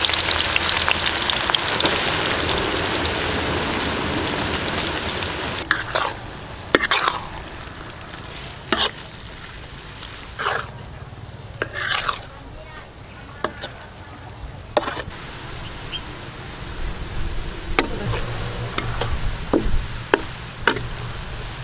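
Sliced onions frying in a steel wok of hot oil: a loud sizzle that fades over the first few seconds. Then a metal spatula scrapes and clinks against the wok in a series of separate sharp strokes as the onions are stirred.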